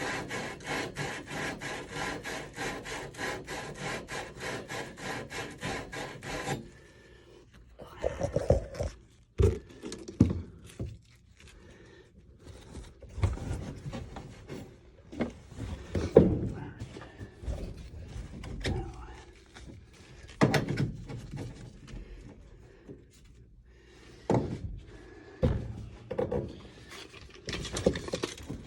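A copper pipe end being scrubbed clean by hand with fast, even back-and-forth rubbing strokes, about four a second, to clean off the spot where a SharkBite push-fit fitting sat. The rubbing stops about six and a half seconds in. After that there are scattered knocks and clunks of tools and fittings being handled.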